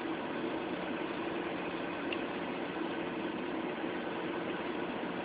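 An engine idling steadily, a constant low hum with no change in pitch.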